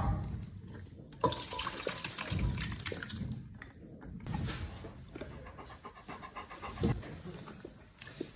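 A dog eating, with wet smacking and clicking mouth sounds coming in irregular runs.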